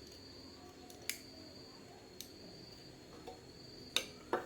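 A few sharp clicks and taps, the two loudest close together near the end, over a faint steady high-pitched tone.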